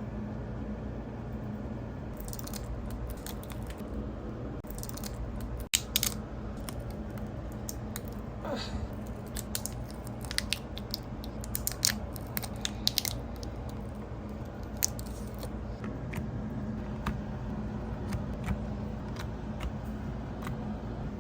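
Scattered small clicks, taps and crinkly handling noises from craft materials being worked by hand, over a steady low hum. There is one brief rising squeak about eight seconds in.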